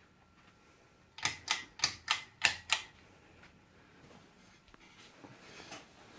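A quick run of six sharp mechanical clicks, about four a second, then quiet room tone.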